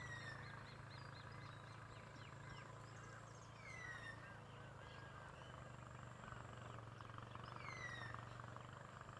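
Faint outdoor birdsong: a whistled call that slides downward, heard three times about four seconds apart, with softer higher chirps between, over a steady low hum.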